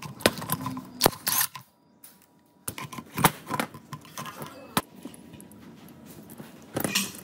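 Scattered sharp metallic clicks and knocks as chainsaw engine parts and hand tools are handled and set down on a workbench. The loudest ones come about a second in and near the end.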